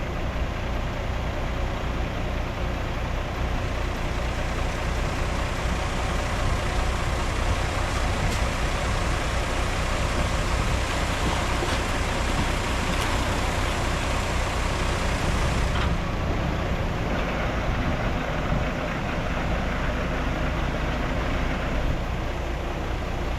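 Heavy diesel earthmoving machinery running steadily under load, a deep engine drone with broad mechanical noise over it; the highest hiss falls away about two-thirds of the way through.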